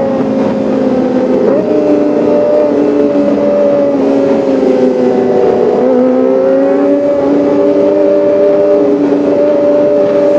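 Kawasaki ZX-25R's 249 cc inline-four engine running hard at a steady, held pitch, dipping slightly about halfway and coming back up.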